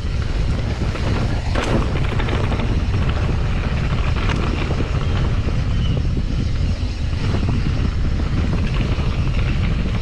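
Wind buffeting the microphone of a camera on a moving mountain bike, a steady low rumble, with scattered clicks and rattles from the bike on the trail; one stronger clack about a second and a half in.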